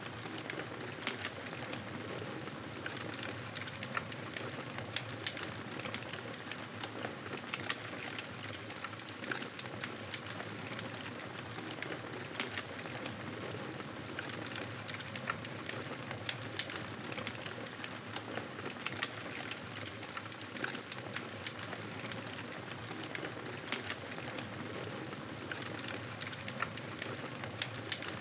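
Wood campfire crackling: a steady hiss of burning with frequent small, sharp pops and snaps scattered throughout.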